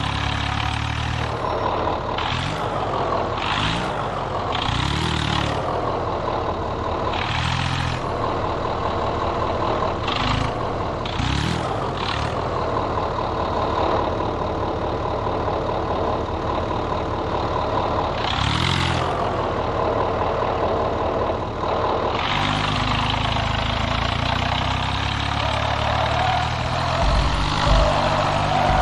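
Tractor diesel engine running throughout, with several short surges as it is revved. Partway through it settles into a heavier, louder low run.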